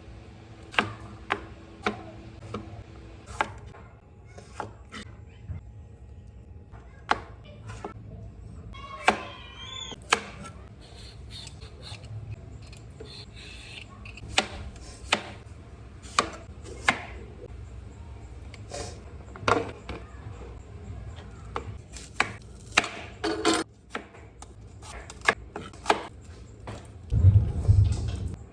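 A series of sharp knocks and taps at an irregular pace, roughly one a second, over a low steady background, with a louder low thud near the end.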